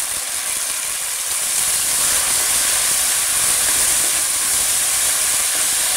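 Tomato puree sizzling steadily in hot oil in a wok as it is stirred into sautéed garlic and onion, a steady hiss that grows a little louder about two seconds in.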